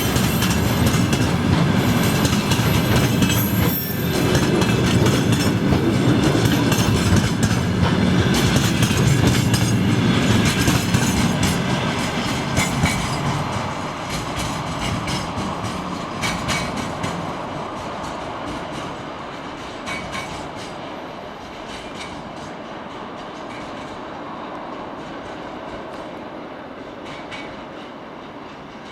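Freight train rolling past, its wheels clacking over rail joints with some squealing of wheels on rail. The sound stays loud for about the first twelve seconds, then gradually gets quieter.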